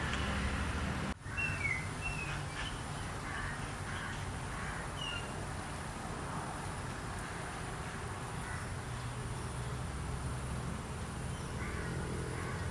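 Outdoor field ambience: a steady low rumble and hiss with a few short bird calls, most of them in the first few seconds. The sound drops out briefly about a second in.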